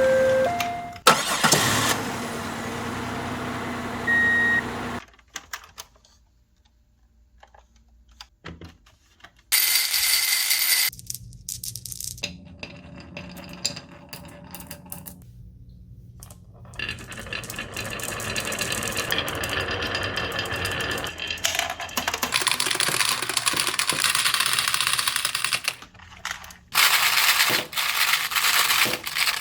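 Marbles rolling down plastic rain-gutter channels and wooden rails: a steady rolling rumble broken by clicks and clacks as they hit joins and each other, with a few seconds of near quiet about a fifth of the way through.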